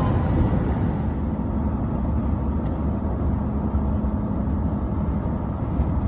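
Steady low rumble of road and engine noise from a car driving at highway speed, heard from inside the car, with a faint steady hum in the middle.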